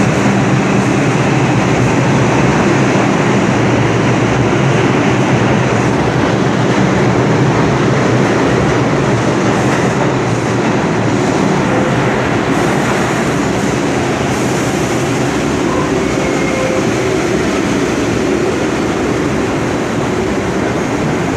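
New York City subway train running on the rails, a loud, steady rumble of wheels and running gear that eases slightly near the end.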